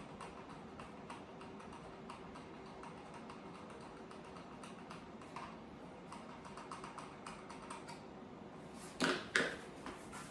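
Hand assembly of an IKEA Sundvik wooden child's chair: a run of small clicks and taps, then two louder knocks about nine seconds in.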